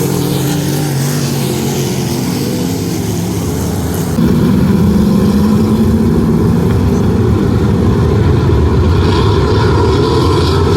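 Sprint car engine running hard at racing speed. It jumps suddenly louder about four seconds in.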